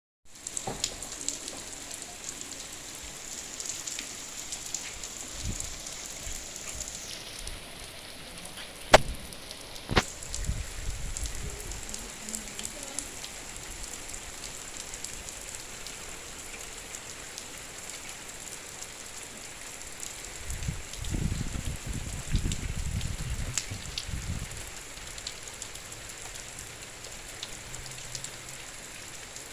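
Heavy rain falling steadily, a constant hiss of drops on surfaces. About a third of the way in come two sharp knocks a second apart, and later a low rumble runs for a few seconds.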